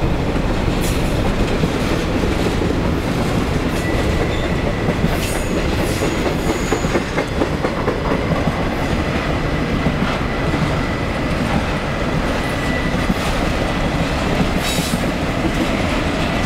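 Intermodal freight cars rolling past, a steady rumble and clatter of steel wheels over the rails, with a faint high wheel squeal at times.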